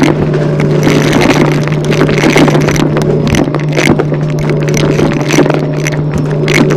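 Vacuum cleaner running steadily at full power while being pushed fast over the floor. Its motor hum is overlaid with frequent sharp clicks and scraping.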